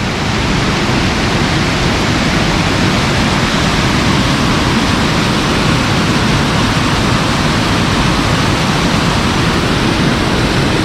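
Waterfall close by: a loud, steady, unbroken rush of falling water.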